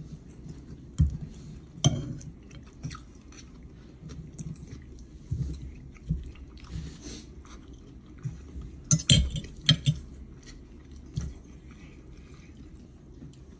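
A person chewing food, with scattered clinks of a metal fork against a ceramic plate; the loudest clinks come in a short cluster about nine seconds in.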